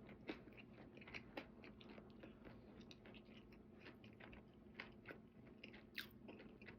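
A person chewing food close to the microphone: quiet, irregular wet mouth clicks, with a few louder ones.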